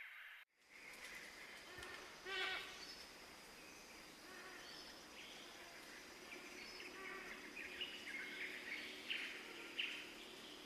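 Tropical rainforest ambience: birds and other animals giving many short chirping calls over a steady background, with one louder call about two seconds in. The sound cuts out briefly about half a second in before the ambience resumes.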